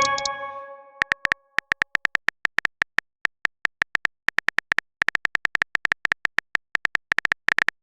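A phone keyboard typing sound effect: a string of short, identical tapping clicks at an uneven pace, several a second, bunching into a quick run near the end. It opens with the tail of a message-alert chime dying away in the first half second.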